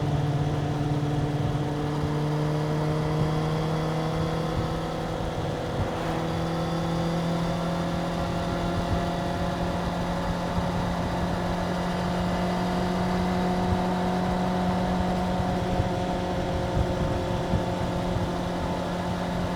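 Suzuki GSX-R750 inline-four engine running at steady mid revs, its pitch rising slowly and evenly.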